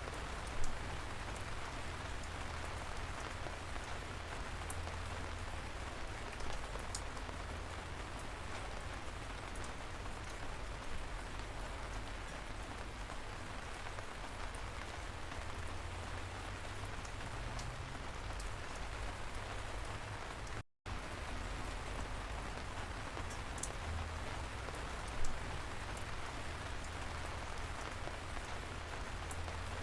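Steady light rain: an even hiss with scattered individual drops ticking, a couple of them louder. The sound cuts out completely for a split second about two-thirds of the way through.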